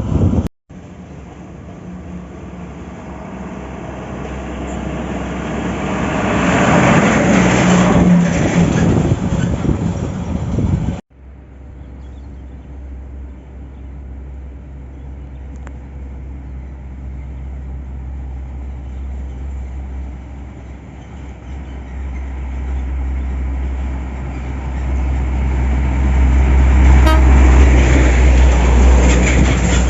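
Heavy diesel trucks driving past. One goes by loudest about eight seconds in. After a cut, another truck's low engine drone builds and peaks near the end, with a short horn toot close to the end.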